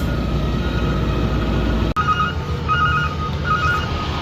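Garbage truck engine running steadily. About halfway through, after an abrupt break, a vehicle reversing alarm starts beeping about once every three quarters of a second over the engine.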